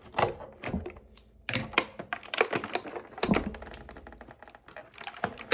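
Irregular clicks, taps and rustles of a small plastic fidget toy and its packaging being handled and pulled from a cardboard advent calendar compartment.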